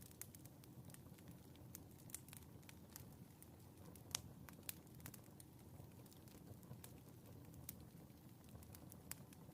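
Faint wood fire in a fireplace crackling: a low steady rumble of the flames with scattered irregular pops and snaps, the sharpest about four seconds in.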